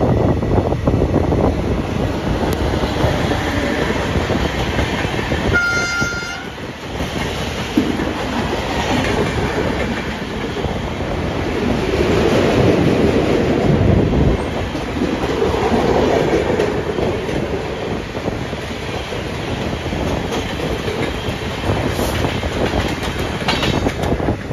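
Running noise of an express train heard from aboard a coach: a steady rumble with the clickety-clack of wheels over rail joints. About six seconds in, a train horn sounds briefly, under a second.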